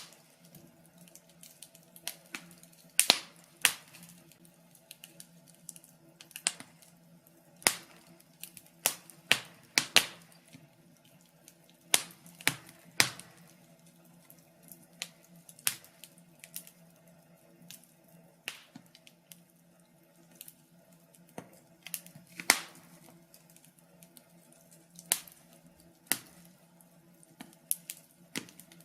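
Wood fire crackling: irregular sharp pops and snaps, one or two a second with some louder cracks, over a faint low steady hiss.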